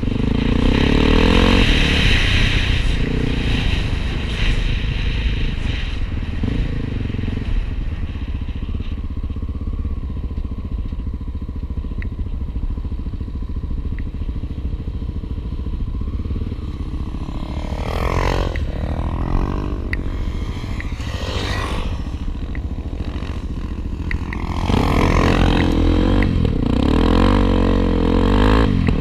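Honda Tornado trail motorcycles' single-cylinder four-stroke engines running on the move. The revs swoop down and up sharply twice around the middle, and the engine gets louder for the last few seconds.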